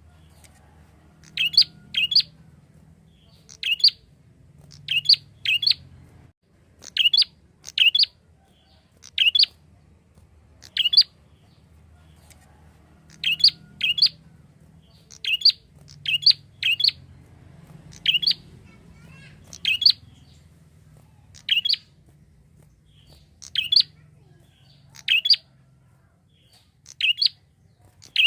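Prinia (prenjak) calling: short, sharp, high chirps, singly or in quick pairs, repeated about every one to two seconds.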